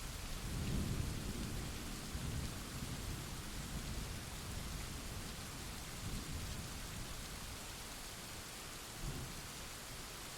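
Steady rain hissing with a roll of thunder that swells about a second in and rumbles on for several seconds, with a short low crack about nine seconds in.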